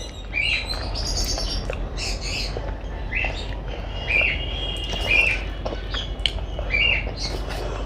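A bird chirping over and over, short calls about once a second, with soft clicks from eating.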